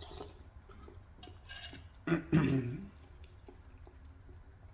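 A spoon clinking against a bowl, with eating sounds of soup being spooned and swallowed. A louder sound comes just after two seconds in.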